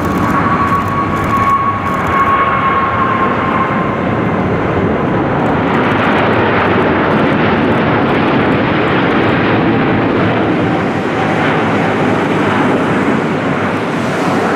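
Jet airliner engines passing: a steady rushing noise with a whine that falls slightly in pitch over the first few seconds.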